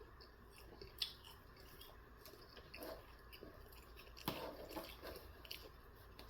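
A person chewing sauced chicken nuggets close to the microphone: faint, soft chewing with scattered small clicks, a sharper one about a second in and another just after four seconds.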